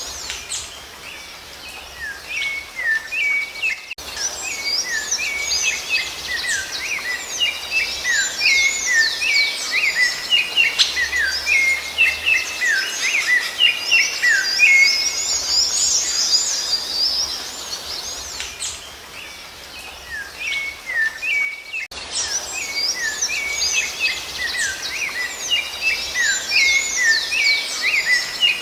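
Rufous-bellied thrush (sabiá-laranjeira) song: a busy run of quick whistled and chirped notes, thinning out twice and cutting off sharply twice, as at splices.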